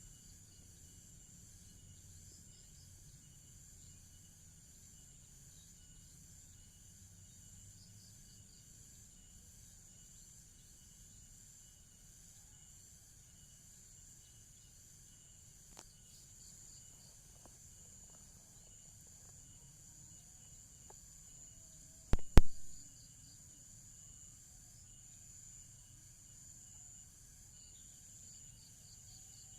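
Steady high-pitched chirring of insects, like crickets, with a few sharp knocks in quick succession about three-quarters of the way through.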